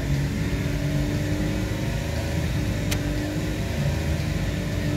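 2013 Holden Commodore's 3.0-litre V6 petrol engine held at a steady, raised speed of about 3,000 rpm while still cold. A single sharp click about three seconds in.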